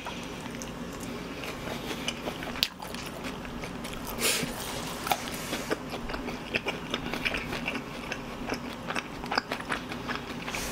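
Close-miked chewing of fried chicken, with many small crunches and mouth clicks.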